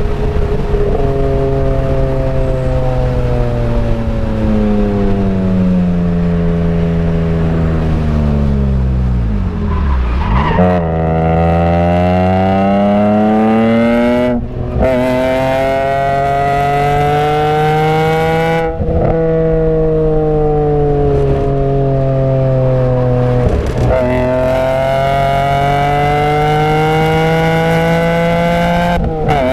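BMW E46 M3's S54 inline-six engine heard from inside the cabin at track pace. Its pitch falls steadily under braking, rises with a quick blip on a downshift about ten seconds in, then climbs hard through the revs. It swings up and down again with several brief breaks at the gear changes.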